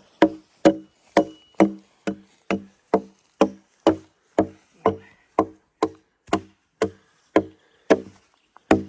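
A steady run of sharp blows of a tool striking wood, about two a second, each leaving a short ringing tone.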